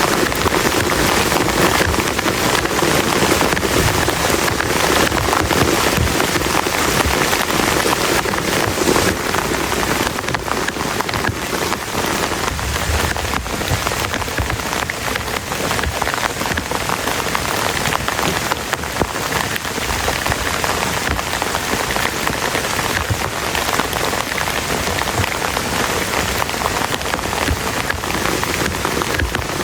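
Heavy rain falling steadily on a plastic tarp overhead: a dense, even patter of drops striking close by.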